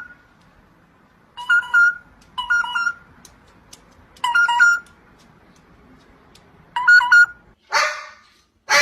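Parrot mimicking a phone ringtone: short two-note trilled rings repeated in groups, with pauses between. Two harsh squawks come near the end.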